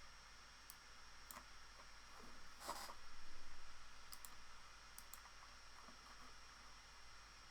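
Computer mouse clicking a few times, some clicks in quick pairs, with a brief soft swell of noise about three seconds in.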